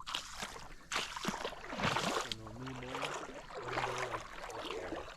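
Shallow river water sloshing and splashing, as of someone wading through it.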